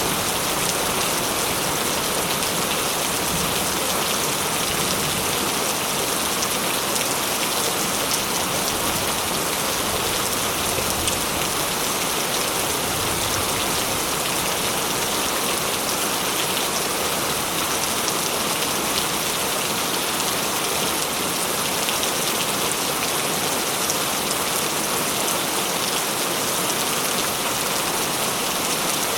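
Steady heavy rain pattering on surfaces, with dense fine drops and no thunder.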